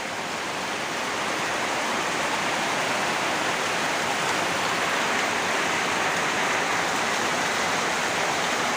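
Heavy rain pouring down in a steady hiss, swelling a little over the first couple of seconds and then holding level.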